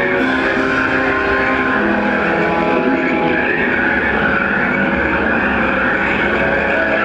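Disneyland Railroad train running steadily along its track, a constant rumble and hiss with high held tones over it, typical of wheels squealing on the rails.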